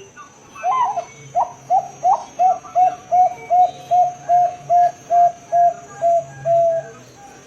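Bangkok-strain zebra dove (perkutut) singing a long rolling series: a few uneven opening notes, then about a dozen short, evenly spaced coos at a steady pitch, a little over two a second.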